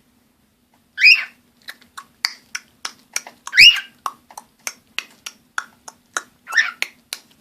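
Cockatiel chirping: three loud, high rising chirps about one, three and a half and six and a half seconds in, with a quick run of short, sharp chips, about three a second, between them.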